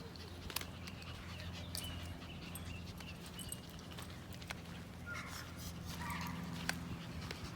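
Footsteps and small clicks of a person walking a dog on a leash, over a steady low hum, with a few faint high chirps in the background.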